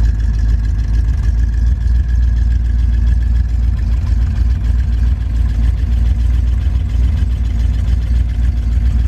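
1973 Chevrolet K20 pickup's engine idling steadily after its first start out of winter storage, a low rumble with a thin steady high whine over it.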